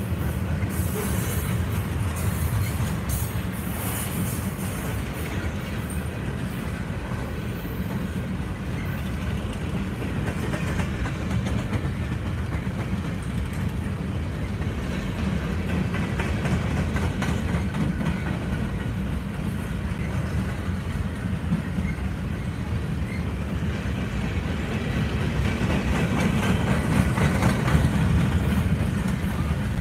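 A long freight train of autorack cars and boxcars rolling past, its steel wheels on the rails making a steady low rumble that swells a little near the end.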